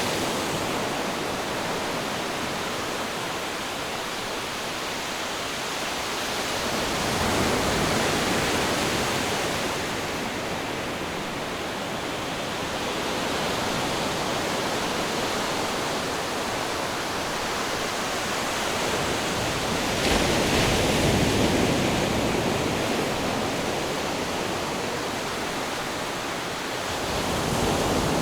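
Ocean waves washing onto the shore in a steady rush, swelling and ebbing every several seconds, with the loudest surge about twenty seconds in.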